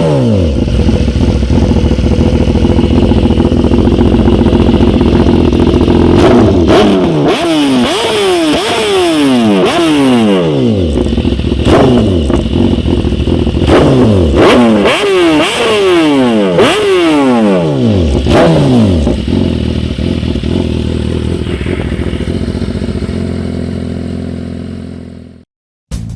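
BMW S1000RR inline-four engine through a Spark aftermarket exhaust, revved in a series of quick throttle blips, each rising sharply and falling back toward idle. It then settles to a steady idle before fading out near the end.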